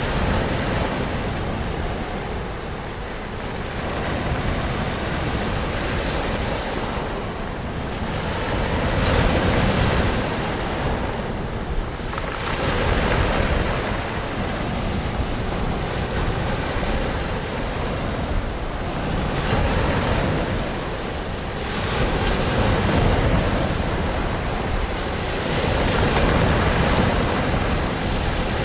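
Ocean waves breaking and washing on the shore: a continuous rush of surf that swells and eases every few seconds.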